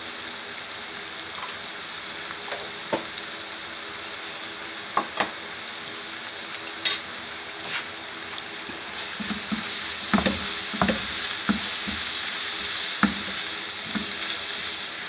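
Onion, tomato and spice masala sizzling in a nonstick frying pan, a steady frying hiss. A silicone spatula stirs it, scraping and knocking against the pan now and then, more often in the second half.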